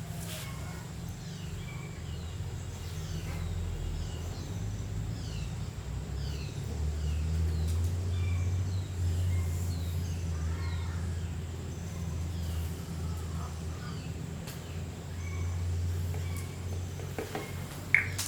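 Small birds chirping: many short, falling chirps, repeated throughout, over a louder low steady hum. A single sharp click comes near the end.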